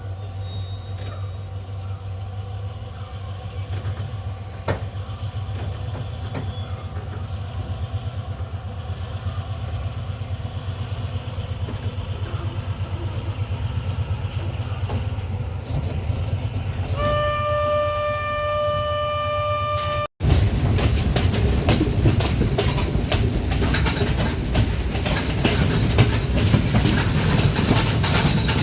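Passenger train running on the rails, a steady rumble with rhythmic wheel clatter. About 17 seconds in, the locomotive's horn sounds one steady blast for about three seconds. After a brief dropout the rumble and clatter are louder and harsher.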